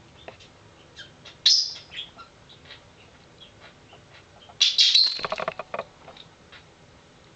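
A bird chirping: one sharp, high call about a second and a half in, then a louder, longer run of chirps around five seconds in, with faint scattered ticks between.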